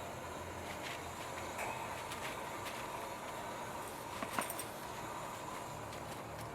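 Steady outdoor background noise with a low hum, broken by a few light clicks and a short knock a little past four seconds in.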